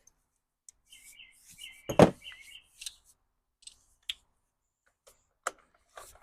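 Parts being handled during small-engine reassembly: scattered clicks and one sharp knock about two seconds in. A few short high chirps come just before the knock.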